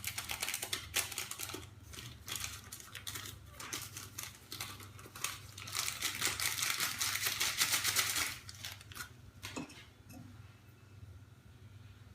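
Quick light tapping and rattling of a small kitchen sieve as baking powder is sifted through it into the cake batter, busiest and noisiest from about six to eight seconds in, then a few scattered taps.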